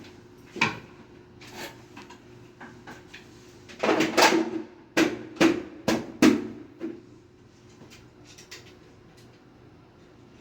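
A run of hard knocks and clacks from parts and tools being handled: one about half a second in, then five or six loud ones in quick succession between about four and seven seconds in, with fainter clicks around them, over a faint steady hum.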